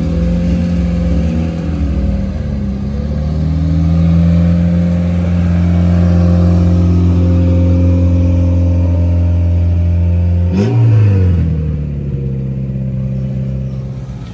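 Car engine running close by at a steady speed, with small changes in pitch in the first few seconds. About ten seconds in there is a sharp knock and the engine note drops.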